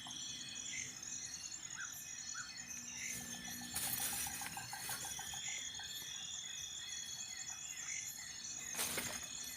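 Forest ambience of a steady, pulsing insect chorus with repeated short bird chirps, a quick trill a few seconds in, and two brief rustling bursts, one about four seconds in and one near the end.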